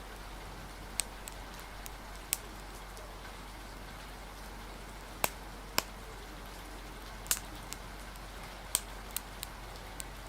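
Wood fire crackling, with sharp single pops every second or so, over a steady hiss of rain and wind.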